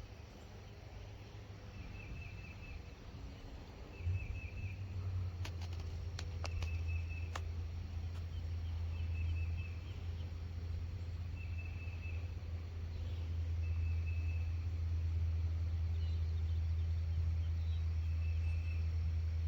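Distant thunder: a deep rumble that comes in suddenly about four seconds in and rolls on steadily. Short high trilled chirps repeat about every two seconds over it.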